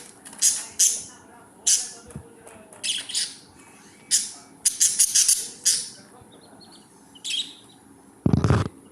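Pet budgerigars giving short, harsh chirps and squawks, about a dozen at uneven intervals. A louder, deeper burst of sound comes near the end.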